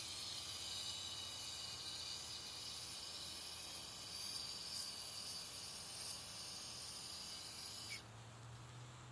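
An aerosol can of mass airflow sensor cleaner sprays through its straw in one long, continuous hiss that cuts off sharply about eight seconds in.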